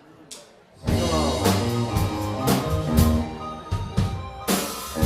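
Live rock band starting a song: a faint count-in click, then about a second in the whole band comes in together on drums, bass and guitar, with a steady beat.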